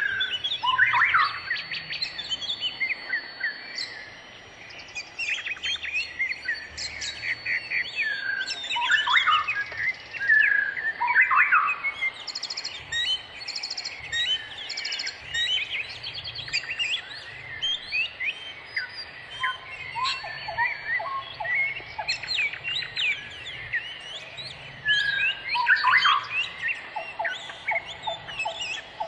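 Several wild birds singing and calling at once: overlapping chirps, sweeping whistles and quick trills, with a run of evenly repeated lower notes near the end.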